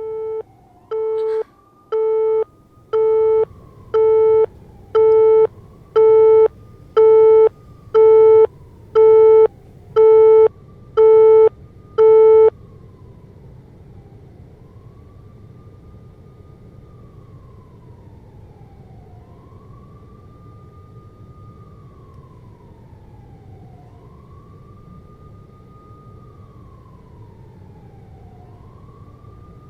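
An electronic beep repeating about once a second, growing steadily louder, then stopping about twelve seconds in. Behind it, a distant siren wails up and down throughout.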